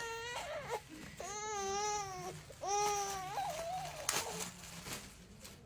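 Infant fussing: a short whiny cry, then two drawn-out cries about a second and two and a half seconds in, the first about a second long.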